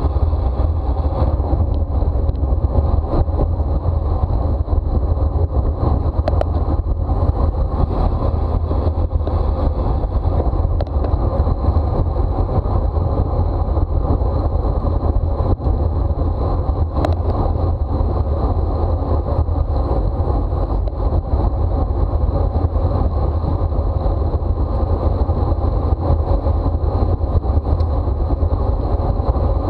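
Steady wind rumble buffeting a camera microphone carried on a racing bicycle at speed, with a thin steady high tone above it and a few faint clicks.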